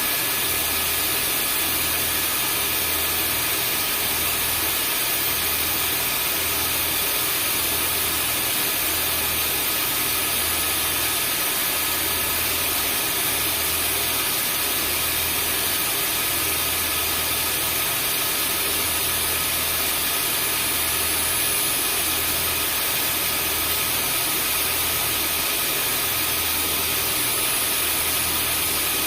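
Vacuum cleaner running steadily: an even rushing noise with a thin high whine. Beneath it a low hum pulses slowly and evenly.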